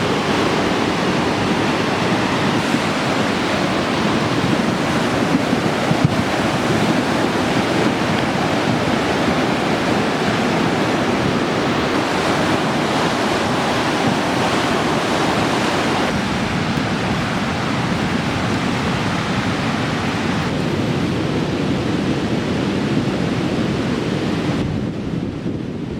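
Fast mountain river rushing over rocks: a steady, loud roar of water, dropping slightly near the end.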